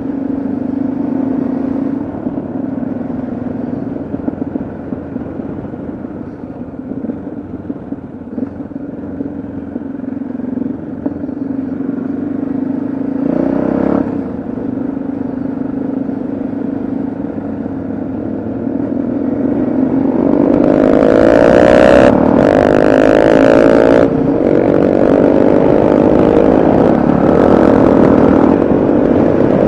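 Yamaha XT660Z Ténéré's single-cylinder engine running under way, steady at first. About two-thirds of the way through it pulls harder, its note rising, with gusts of wind rushing over the microphone.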